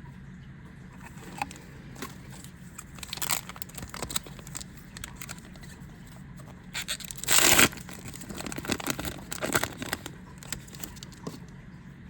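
Foil booster pack being handled and torn open, with a loud tear lasting about half a second about seven seconds in, surrounded by rustling, crinkling and the scrape of trading cards being handled. A low steady hum sits underneath.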